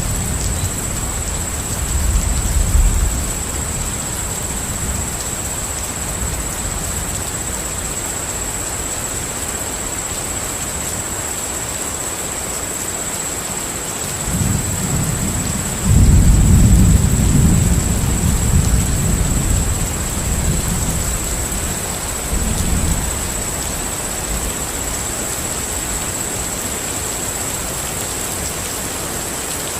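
Steady rain with rolling thunder: a low rumble swells about halfway through, breaks out more strongly a couple of seconds later and fades over several seconds, with a smaller rumble near the start. A thin, steady high whine sits over the rain throughout.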